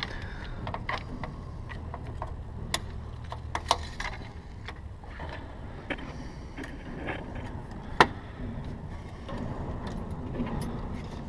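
Sharp metallic clicks and clinks of lock wire pliers working stainless steel lock wire, with one louder click about eight seconds in, over a steady low hum.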